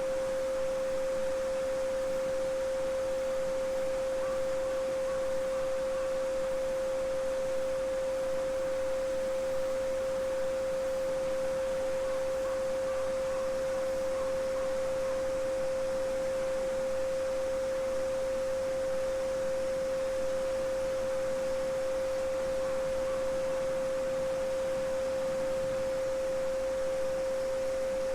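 A steady 528 Hz pure sine tone, held without change, over the soft, even babbling of a small brook.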